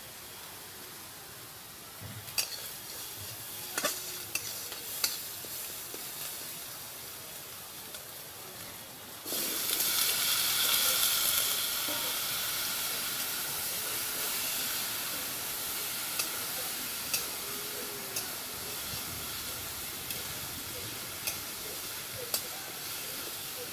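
A metal spatula clinks and scrapes in a steel karahi of spices frying in oil. About nine seconds in, chopped bottle gourd goes into the hot oil and a loud sizzle sets in, easing slowly while the spatula clinks now and then as it stirs.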